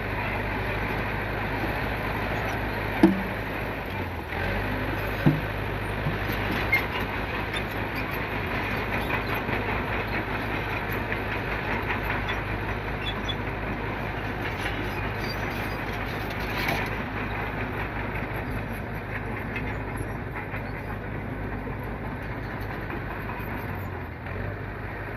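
Mitsubishi Canter dump truck running steadily under a heavy load, with a steady low engine hum and a few sharp knocks in the first several seconds.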